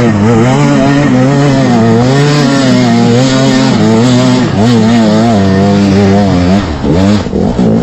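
Trail motorcycle engine running hard, its pitch wavering up and down with the throttle, then dropping off and going uneven near the end.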